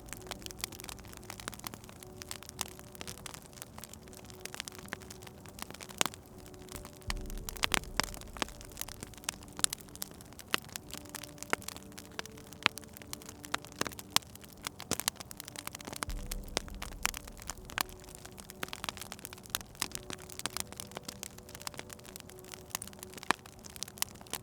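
Wood fire crackling, with frequent irregular sharp pops and snaps over a soft low hum.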